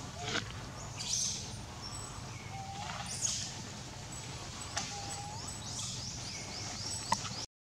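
Outdoor ambience of birds calling: short rising whistled notes repeated every couple of seconds, with quicker high chirps between them, over a steady low hum. A sharp tick comes near the end.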